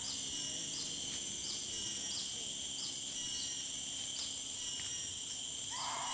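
Chorus of insects, crickets among them, shrilling steadily, with a short chirp repeating about every two-thirds of a second. Near the end comes one brief lower call from another animal.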